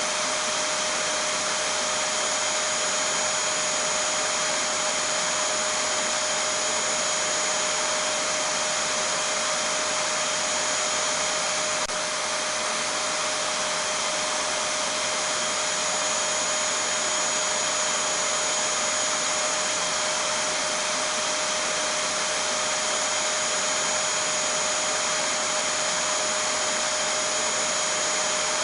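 Vacuum cleaner running steadily: a constant rushing noise with a fixed, unchanging whine over it.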